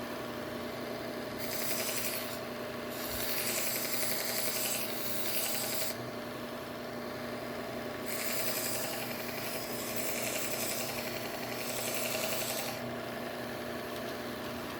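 Bucktool slow-speed belt grinder running with a steady hum while a knife blade is drawn against the moving belt, a scratchy rasp in two long stretches of passes, the first starting about a second and a half in and the second about eight seconds in. The blade is being restropped because it did not cut well.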